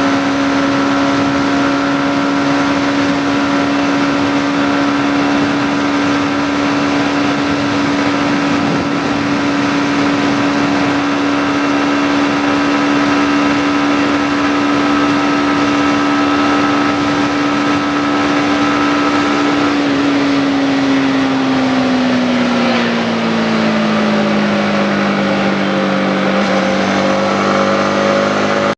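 Yamaha MT-15's single-cylinder engine running at a steady cruising speed, its note holding one pitch, then falling over several seconds about two-thirds of the way through as the bike eases off and slows.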